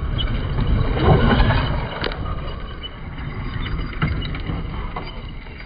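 Truck engine rumbling, swelling about a second in and then easing off, with a few sharp knocks.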